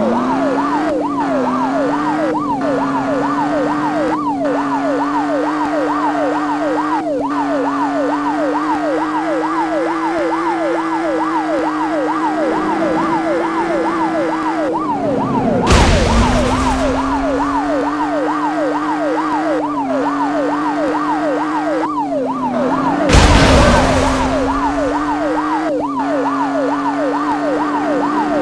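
Police car siren sounding a fast yelp, rising and falling about three to four times a second, over a steady lower drone. Two brief loud rushes of noise break in, about halfway and about three-quarters through.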